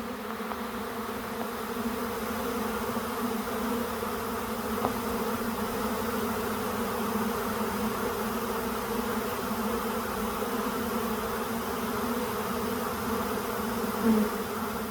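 Loud, steady buzzing hum of a large honey bee swarm in the air, the swarm clustering at and moving into an empty hive.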